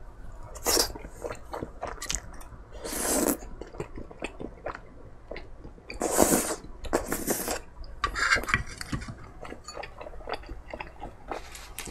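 Close-miked chewing of chewy rice cakes in spicy sauce: many small wet clicks and squishes, with a few short breathy noises in between.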